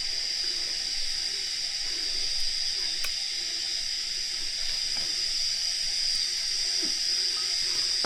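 Steady high-pitched insect drone of forest cicadas, an unbroken shrill hiss, with faint low sounds underneath.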